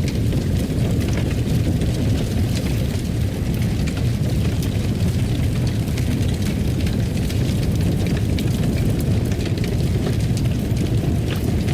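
Fireplace fire burning: a steady low rumble of the flames with frequent small crackles and pops scattered through it.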